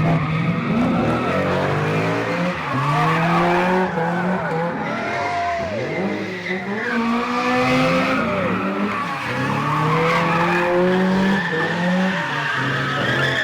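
Car engine revving hard, its pitch climbing and dropping again and again, with tires screeching as the car spins its wheels.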